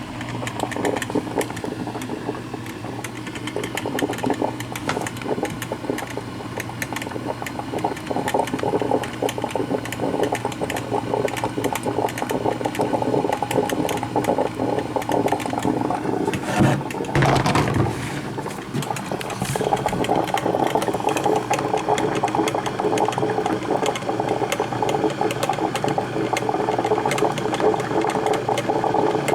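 Black & Decker thermal carafe drip coffee maker brewing: a steady hum with a dense crackling, sputtering texture as the water heats and is pushed up to the brew basket. About 17 seconds in there is a louder, noisier surge lasting a second or so.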